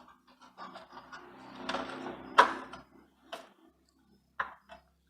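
Small clicks and knocks of a replacement switch being handled and fitted into an electric grill's housing, with the sharpest knock about two and a half seconds in.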